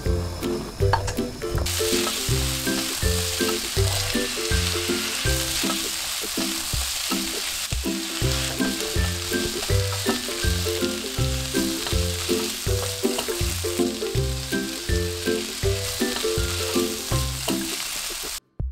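Julienned potato and zucchini sizzling in cooking oil in a frying pan as they are stirred with a spatula. The sizzle starts about two seconds in and cuts off suddenly just before the end, over background music with a steady beat.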